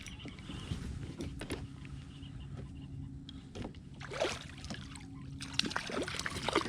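Reeling in a hooked white bass from a kayak: scattered clicks and knocks from the reel and hull, over a low steady hum.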